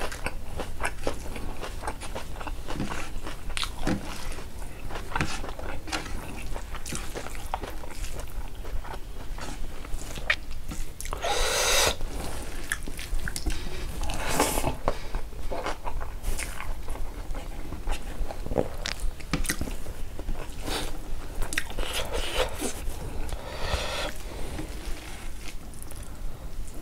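Eating sounds of a hand-fed meal of pork, rice and lettuce leaves: steady chewing and biting with wet mouth clicks, and louder crunches now and then.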